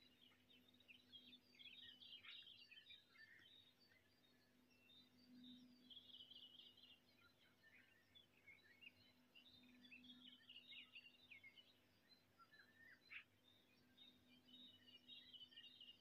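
Faint birdsong: scattered chirps and short trills from small birds, over a faint steady low hum.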